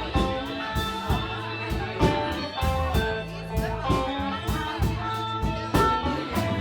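Live band playing an instrumental passage: electric guitar notes over bass and drums, with drum hits about twice a second.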